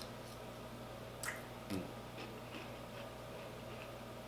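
Faint eating and mouth sounds: a few wet clicks and smacks, with a brief low murmur in the middle, over a steady low electrical hum.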